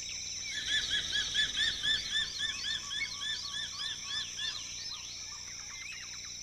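Crowned eagle calling: a rapid run of whistled notes, each rising and falling, about four a second for some four seconds. A steady high-pitched drone of forest insects runs underneath.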